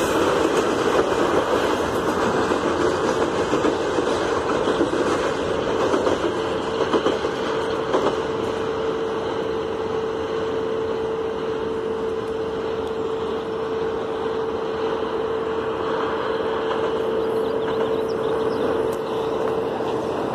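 Freight train of hopper wagons rolling along the rails as it pulls away, a continuous rolling noise. A steady mid-pitched tone joins it about two seconds in and grows stronger from about six seconds on.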